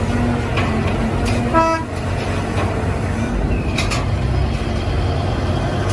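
A steady vehicle engine rumble with one short horn toot about a second and a half in.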